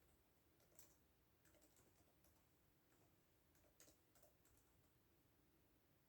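Faint, sparse computer keyboard keystrokes: a few scattered key clicks with pauses between them, stopping after about four and a half seconds.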